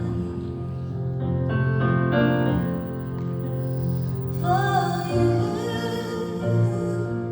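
A song: a woman singing held, wavering notes over piano accompaniment.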